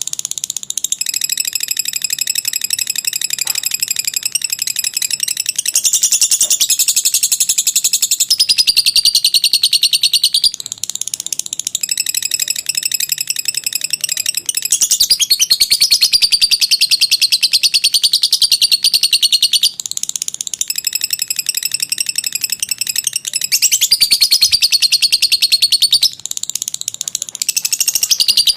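Lovebird singing the long chattering 'ngekek panjang' song that keepers prize: a rapid, high-pitched, buzzy trill that runs on for many seconds, broken by a few brief pauses.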